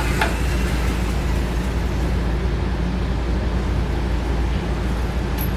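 HO-scale model layout running: small electric motors and wheels on the track making a steady hum and rolling rumble, with a short sharp sound just after the start.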